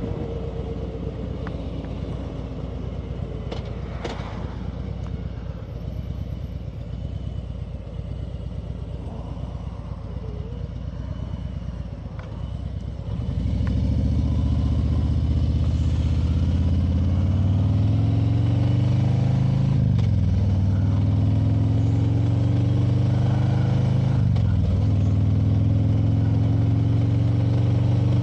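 Motorcycle engine running at light throttle, then about halfway through opened up and accelerating hard, its pitch climbing and dropping back twice as it shifts up through the gears.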